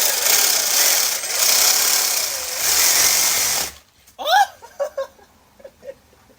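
Reciprocating saw (Sawzall) running and cutting into a paper Chick-fil-A bag with a sandwich inside for nearly four seconds, then cutting off suddenly. After it stops, a short high whine and a string of faint, short whimpers follow.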